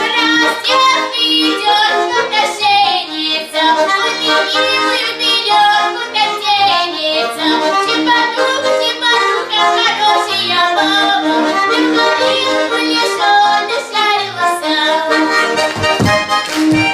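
Accordion playing a tune over a held bass note.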